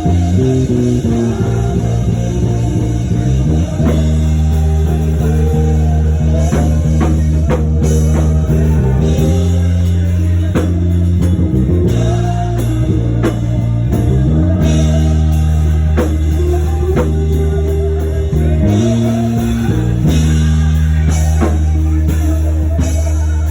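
Church worship band playing instrumental music: long held bass notes that change every few seconds, with guitar and a drum kit over them.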